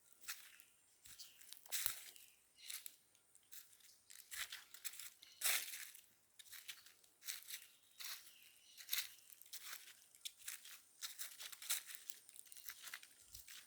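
Footsteps crunching and rustling through dry leaf litter on the rainforest floor, irregular crunches coming roughly once or twice a second.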